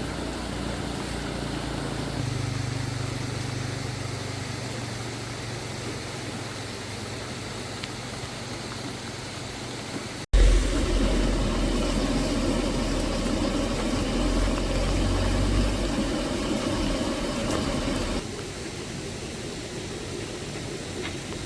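Motor vehicle engines running steadily. An abrupt cut about ten seconds in brings a louder, deeper engine rumble, which drops away a few seconds before the end.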